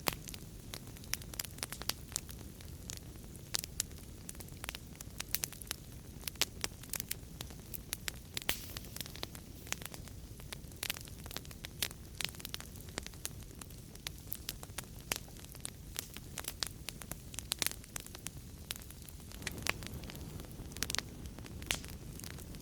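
Wood fire in a fireplace crackling: frequent sharp pops and snaps at irregular intervals over a soft, steady low rumble of flames.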